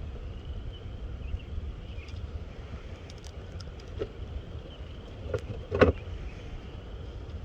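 Low, steady rumble of wind on the microphone, with a few short knocks; the loudest comes near six seconds in.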